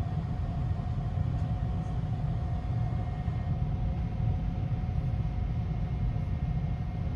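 Steady low rumble of the Sunrise Seto sleeper train heard from on board, with a faint steady hum over it.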